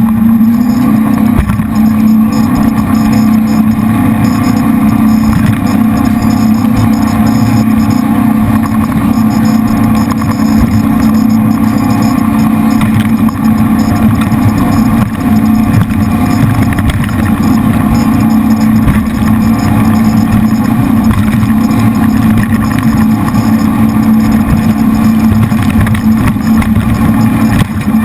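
Jet boat's three big-block Chevy V8 engines, each driving a Hamilton 212 water jet, running at a steady speed: a loud, even engine drone with no change in pitch.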